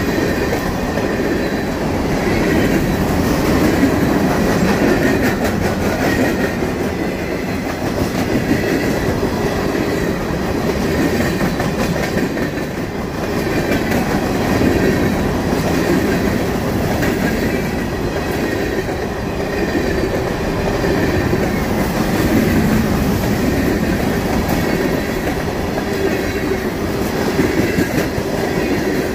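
Union Pacific freight train's covered hoppers and tank cars rolling past at close range: a steady, loud rumble of steel wheels with clatter over the rail joints.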